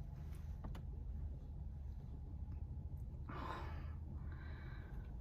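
A woman sighs heavily about three seconds in, then breathes out again. Under it runs a steady low rumble.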